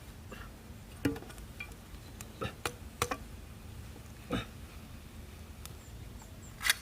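A few short, sharp knocks and clicks at irregular intervals over a low steady background hum.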